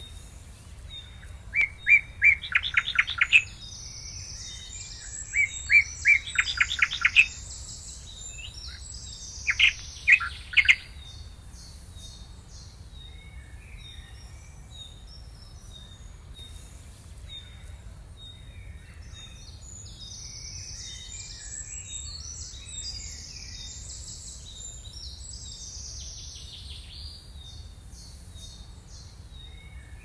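Small birds chirping: three loud bursts of rapid chirps in the first ten seconds or so, then fainter high twittering, over a steady low background rumble.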